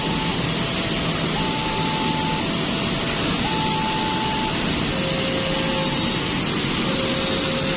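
Diesel-electric locomotive (CC 203 class) running with a steady drone. A faint tune of long held notes, each about a second, steps between pitches over the engine noise.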